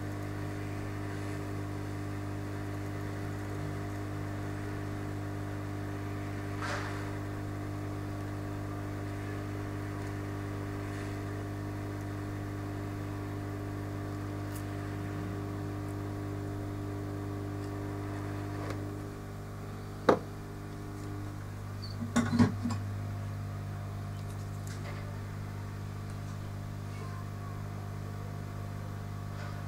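A steady machine hum with several layered tones. Some of the hum's higher tones fade out about nineteen seconds in. A single sharp click follows about twenty seconds in, then a short cluster of knocks a couple of seconds later.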